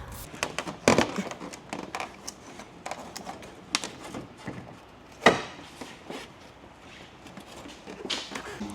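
Scattered clicks and knocks of hand tools and metal parts being handled. The two loudest knocks come about a second in and about five seconds in.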